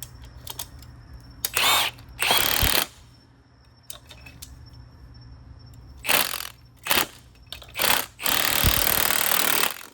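Handheld power tool run in six short bursts on the car's suspension bolts, the last burst the longest at about a second and a half, with a whine as it spins up at the first burst.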